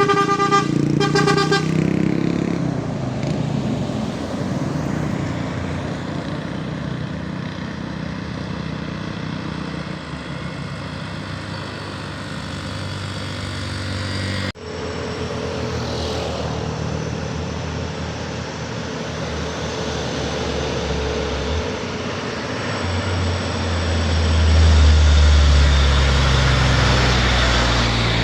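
Heavy truck engines running on a steep road, with two short horn toots in the first two seconds. A deep engine grows louder near the end as a truck labours closer.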